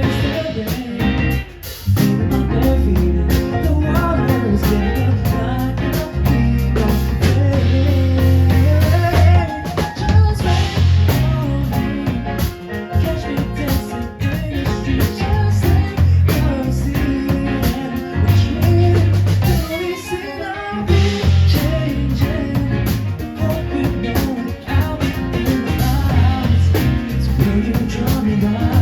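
Live band playing an instrumental passage of a pop song, with drum kit, bass and guitar.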